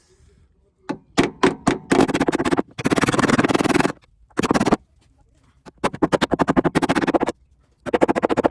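A hammer beating the Fiat Panda's steel body panel back into shape, in several bursts of very rapid strikes separated by short pauses.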